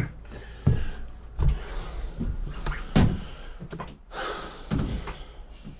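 Irregular knocks and clicks of hands and tools working on a motorcycle, with a sharp click about three seconds in and a brief scrape a little after four seconds.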